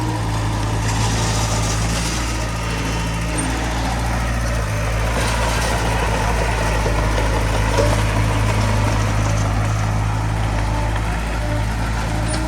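Diesel engine of heavy earthmoving machinery running steadily at an even speed, a constant low engine hum.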